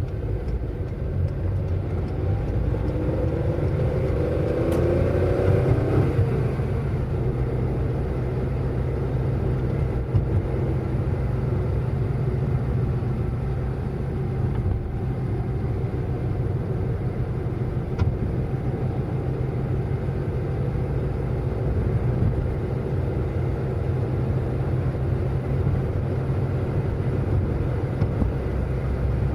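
Car driving, a steady low engine and road rumble. About two seconds in the engine revs up in rising pitch, breaks off about six seconds in, then settles back to a steady run.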